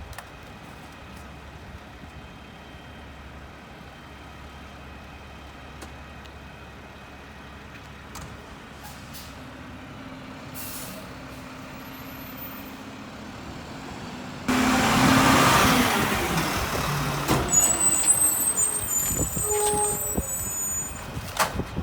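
Mack LR garbage truck's diesel engine running steadily, then about two-thirds of the way through a sudden loud hiss of air, typical of the air brakes releasing, followed by scattered high squeals.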